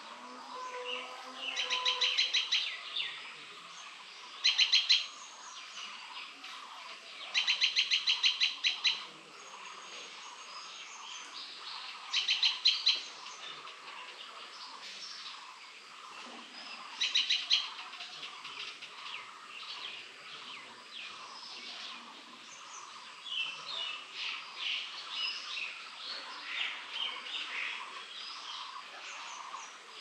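A bird calling in loud bursts of rapid, evenly repeated high notes, each burst about a second long, five times in the first half, followed by softer scattered chirps of birds in the last third.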